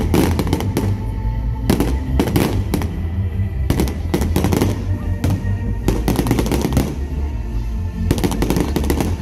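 Aerial fireworks bursting in rapid clusters of bangs and crackles, a volley every second or two, with music playing underneath.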